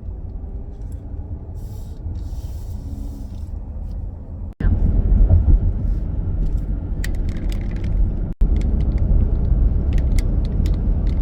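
Steady low road and engine rumble of a moving minivan, as heard from inside. It breaks off abruptly twice and is louder after the first break, with light ticks and rattles in the second half.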